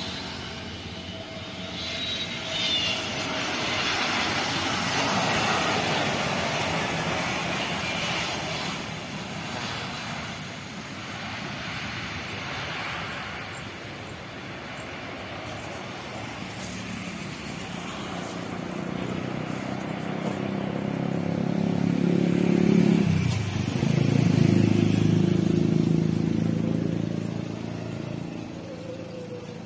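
Jet airliner engines passing, a rushing roar that swells and fades, followed by a louder low engine hum that builds, drops in pitch about two-thirds of the way through and then fades.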